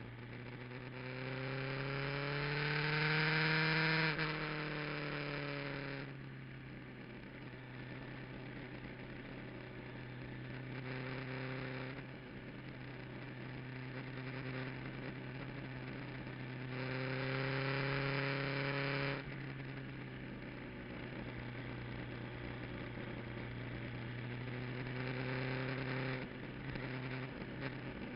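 Kawasaki GPZ900R motorcycle's inline-four engine on track, heard from an onboard camera: it climbs in pitch under throttle with a rushing hiss, then drops away sharply about 4 to 6 seconds in. It pulls hard again and cuts off suddenly around 19 seconds, with a shorter surge near the end, over a steady low hum.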